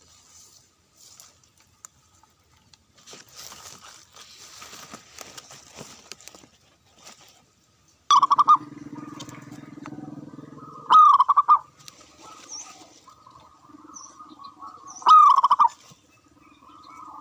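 Dove cooing: three loud, trembling coos spaced three to four seconds apart, starting about halfway in. Softer rustling comes before them.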